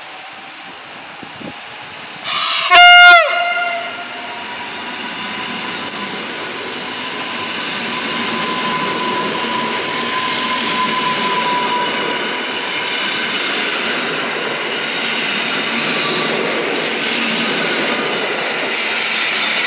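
Koleje Mazowieckie electric multiple unit sounds one loud horn blast of about a second, starting about two seconds in. It then runs along the platform past the listener, its rolling noise slowly growing louder, with a thin steady whine for several seconds in the middle.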